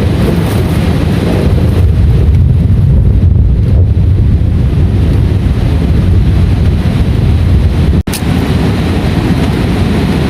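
Heavy rain with a steady, loud low rumble of wind buffeting the microphone. The sound cuts out for an instant about eight seconds in.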